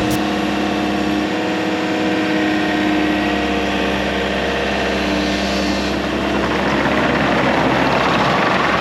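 Mecalac loader-excavator's engine running steadily with an even hum; about six seconds in it turns rougher and noisier.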